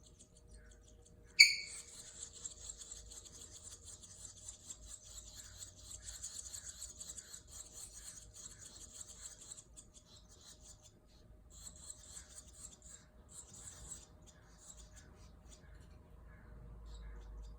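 Baby swallows in the nest giving a high-pitched, raspy begging chorus. It starts just after a sharp click about a second and a half in, runs for about eight seconds, then comes back in two shorter bursts.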